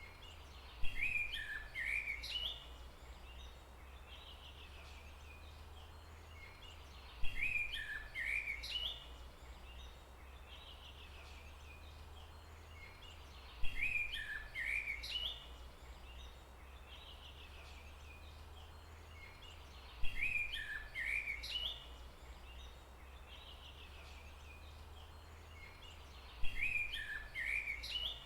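A bird call, a sharp first note followed by a quick run of chirping notes lasting about two seconds, repeats identically five times about every six seconds, as a looped recording does. A steady low hum runs underneath.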